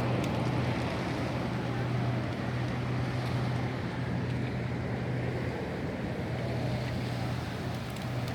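A steady low engine hum under a wash of wind and water noise, with wind buffeting the microphone.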